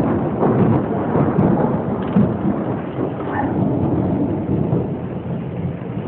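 Thunder rumbling over rain, slowly dying away.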